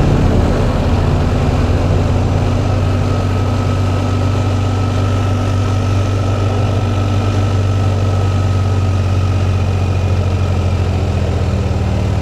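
Motorcycle engine running steadily as the bike rolls down a steep descent.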